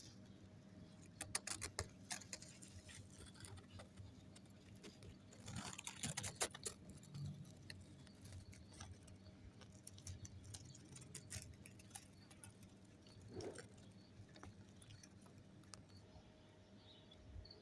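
Faint rustling and clicking of tree leaves in gusts of breeze, in short bursts a second or two in, around six seconds in, and again near eleven seconds.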